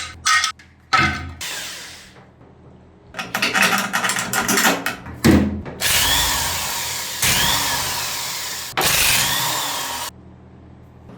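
A hand-held power tool run in three bursts of about a second and a half each, its pitch rising and falling within each burst, after some sharp clanks and rattling of metal parts being handled.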